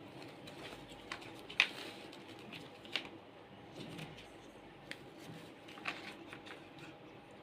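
Toys being handled: scattered light clicks and taps, the sharpest about one and a half seconds in, over a faint room hum.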